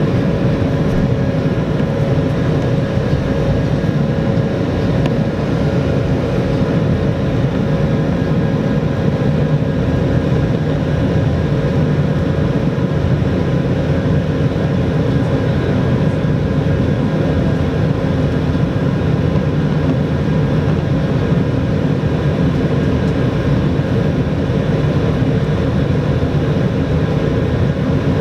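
Steady cabin noise inside an Airbus A220-300 airliner: the even rush of airflow and the hum of its Pratt & Whitney PW1500G geared turbofan engines, with a few fixed whining tones and no change in level.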